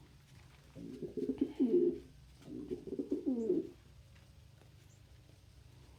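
Domestic pigeon cooing: two low coos, one about a second in and one around the middle, each wavering and bending in pitch.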